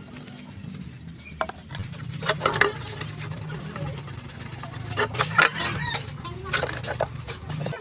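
Scattered light clicks and taps over a steady low hum, with a chicken clucking in the background.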